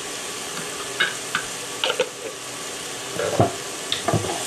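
Chicken of the woods mushroom strips sizzling steadily in olive oil in a frying pan. A wooden spoon stirring them gives a few short knocks and scrapes against the pan, the loudest about three and a half seconds in.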